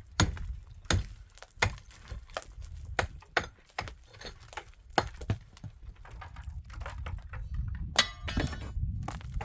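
Irregular sharp knocks and clinks of building work, several loud strikes spaced half a second to a couple of seconds apart, over a steady low rumble.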